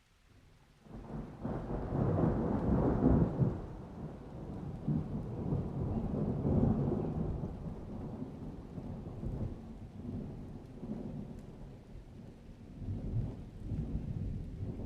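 Thunder rumbling during rain: after a brief lull, a low roll builds about a second in and rolls on for several seconds, easing off and swelling again near the end.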